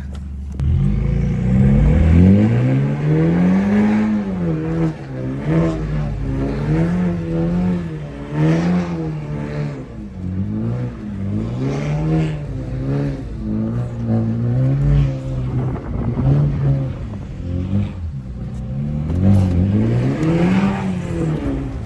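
A 2015 BMW 328i's turbocharged 2.0-litre four-cylinder engine revving hard, rising and falling about a dozen times, as the car is slid with its rear tyres spinning on wet pavement.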